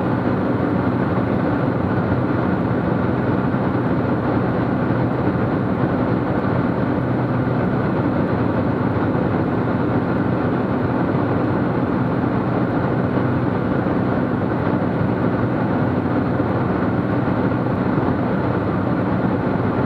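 Cessna T210's turbocharged six-cylinder piston engine and propeller droning steadily in flight, as heard in the cockpit.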